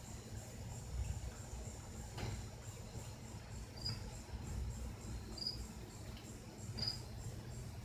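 Crickets chirping: a steady, rapidly pulsing high trill, with three louder short chirps about four, five and a half and seven seconds in.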